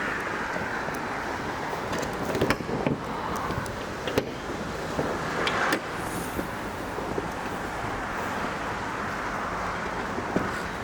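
Road and engine noise of a car being driven, a steady rush, with a few short knocks about two, four and five and a half seconds in.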